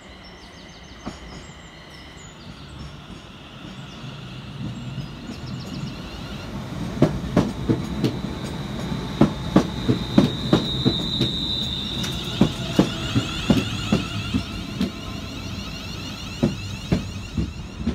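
ScotRail Class 380 electric multiple unit arriving at a station platform. Its running rumble builds over the first several seconds, then the wheels clatter over rail joints in a long run of sharp knocks, with a high-pitched squeal about ten seconds in as it slows.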